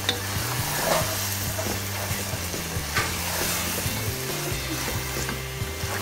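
Minced meat and peas sizzling in a pan while a wooden spatula stirs through them, with a few sharper scrapes of the spatula against the pan.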